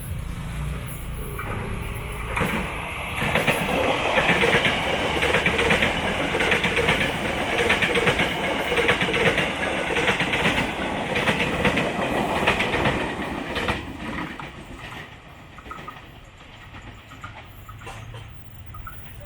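A train passing close by, its wheels clattering rapidly over the rails. It swells a couple of seconds in, runs loud for about ten seconds, then fades away.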